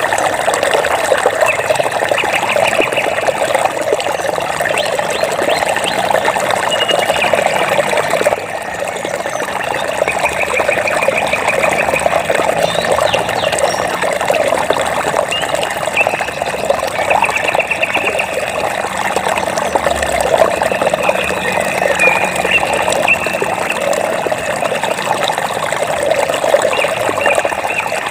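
Flowing water trickling and splashing steadily, with short high-pitched trills from an animal recurring every few seconds. The water dips briefly in loudness about eight seconds in.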